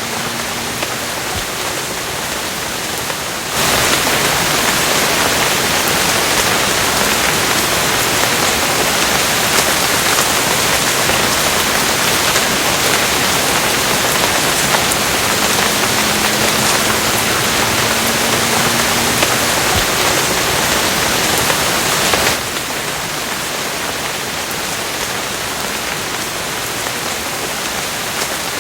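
Steady rain. A heavier, louder downpour starts abruptly about three and a half seconds in and stops just as abruptly about twenty-two seconds in.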